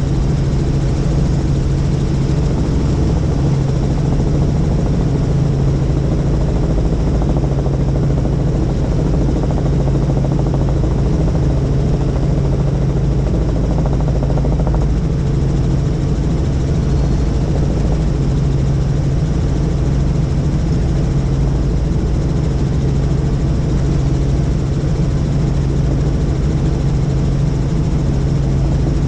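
Helicopter running steadily: a constant loud drone of rotor and engine with a strong low hum and no change in pitch or level.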